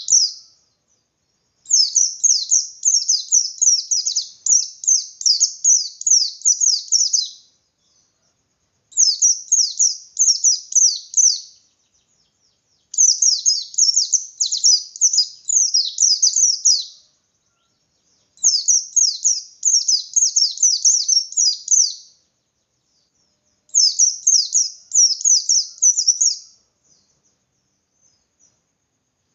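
Pleci bustomi white-eye singing its fast 'ngalas' song: bursts of rapid, high, down-slurred twittering notes, each burst a few seconds long, broken by pauses of a second or two.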